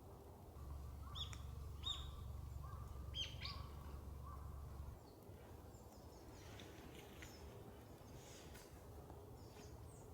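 Birds calling: a few short sharp chirps and a run of evenly spaced short notes in the first few seconds, then fainter scattered chirps. A low rumble underneath stops about five seconds in.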